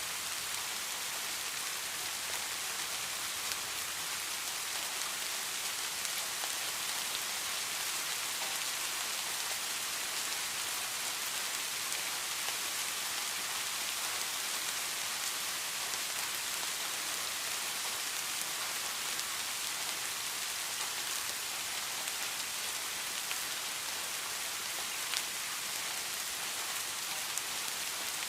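Heavy rain falling steadily: a dense, even hiss with faint ticks of single drops scattered through it.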